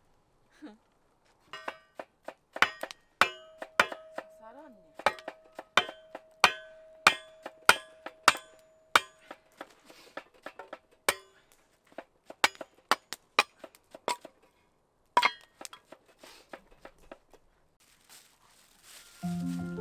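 Metal being struck repeatedly, a run of sharp ringing clinks about two a second, with a steady ringing tone under them for several seconds before the strikes thin out.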